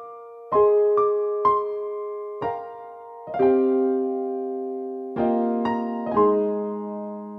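Slow keyboard music in a piano or electric piano sound: single notes and chords struck a few at a time, each ringing and fading before the next.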